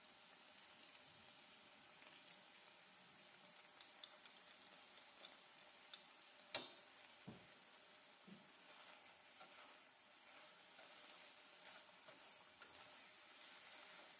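Faint sizzling of dried anchovies in a fish-sauce glaze in a nonstick pan over very low heat, with light clicks of utensils stirring the fish and one sharper click about six and a half seconds in.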